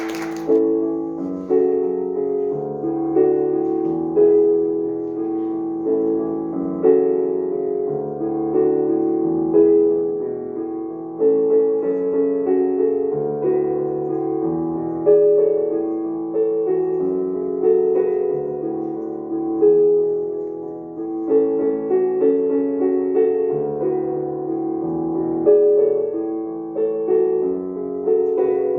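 Solo piano playing a piece, single notes struck and ringing over a repeating pattern in the lower notes.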